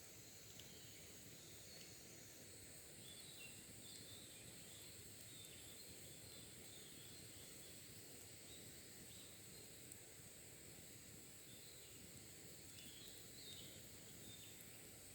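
Faint wild birds chirping in short, scattered calls over a steady high hiss.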